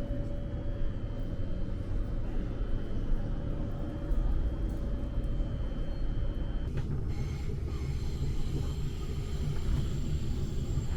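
Train running: a steady low rumble, with a high steady tone that stops and a change in the rumble about two-thirds of the way in.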